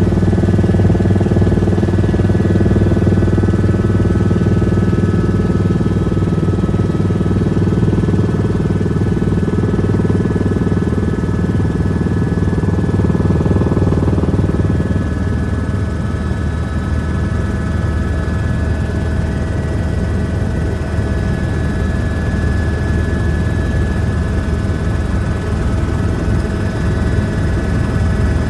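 Helicopter in flight: steady engine and rotor noise with a thin high whine over it; the low drone lightens about halfway through.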